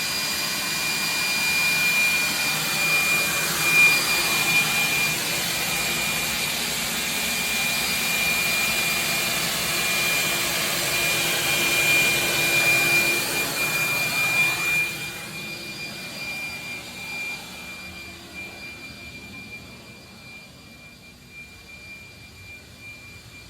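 Wet-dry vacuum running steadily with a high motor whine over a loud rush of air, used to suck up water from a plumbing leak; the sound grows quieter over the last several seconds.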